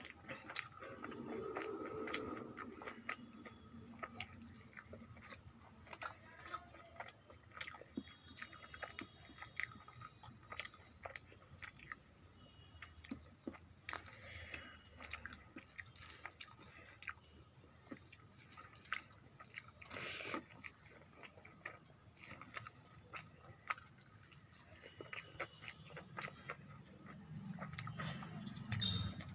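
Close-up eating sounds: a person chewing and biting a meal of rice, fried vegetables and chicken curry, with scattered small wet mouth clicks and smacks.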